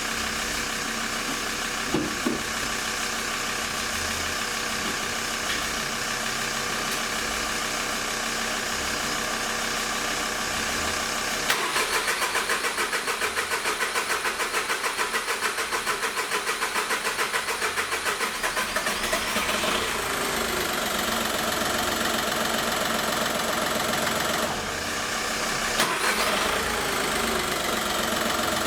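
Skoda Fabia's 1.4 TDI three-cylinder pump-injector diesel being cranked on the starter with jump leads from another car, cold after standing for days: a steady engine run first, then an even chugging at about four beats a second, after which the diesel catches about two-thirds of the way through and keeps running.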